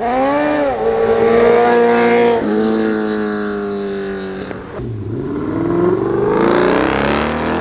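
Car engine revving hard. The pitch jumps up at the start and holds, drops about two and a half seconds in, sags to a low point about five seconds in, then climbs steadily again.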